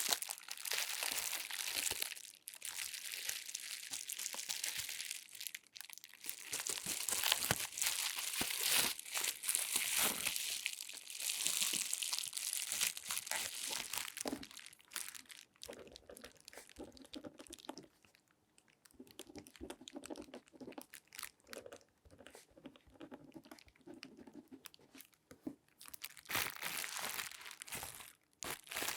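Close-up crinkling and rustling of latex-gloved hands handling things, dense for about the first half and again near the end. In between is a quieter stretch with faint squeaky tones.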